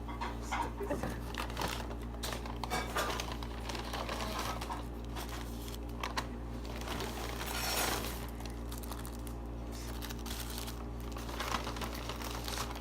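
Food packaging crinkling and rustling in irregular spurts, with small clicks and taps, over a steady low hum.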